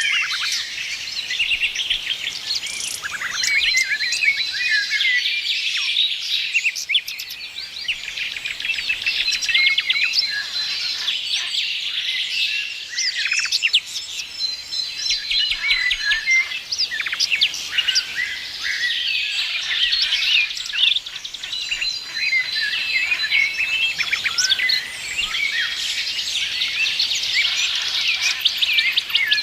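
Many small birds chirping and singing together, a dense steady chorus of quick high chirps and short whistled notes, with a few brief held tones among them.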